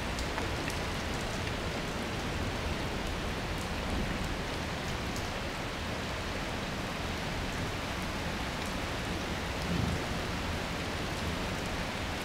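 Steady hiss of rain falling in a thunderstorm, with scattered faint ticks of drops striking nearby surfaces.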